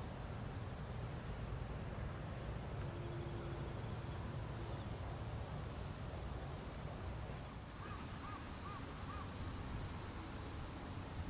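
Steady low outdoor rumble with faint, rapid high chirping running through it. About eight seconds in come four short bird calls that rise and fall.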